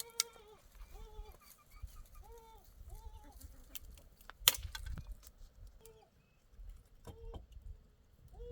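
Short bleating calls, each under half a second, repeated over and over at a steady pitch. Sharp clicks and knocks come in among them, the loudest about four and a half seconds in, over a low rumble.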